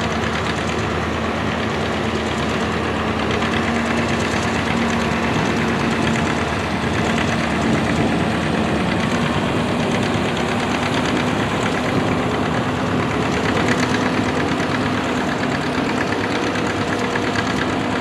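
Antique farm tractor engine running steadily at a constant speed, with a rough, knocking engine note.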